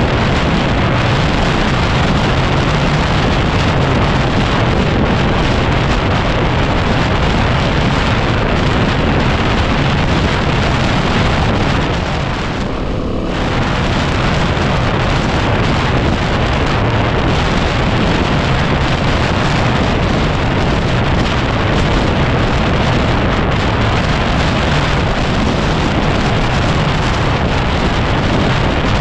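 Heavy wind buffeting on the microphone over the Yamaha WR250R's single-cylinder engine running steadily while riding, with the wind easing briefly about halfway through.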